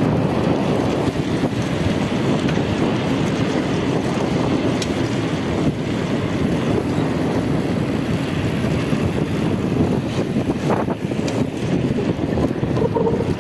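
Steady wind buffeting the microphone while riding a bicycle, with a few faint clicks.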